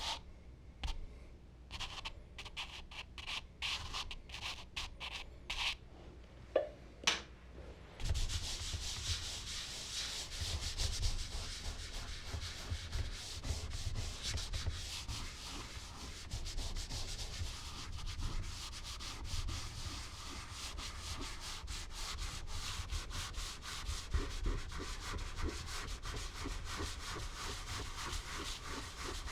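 Charcoal drawing tools worked on smooth Bristol paper: a few separate short strokes, then from about eight seconds in, fast continuous rubbing across the paper.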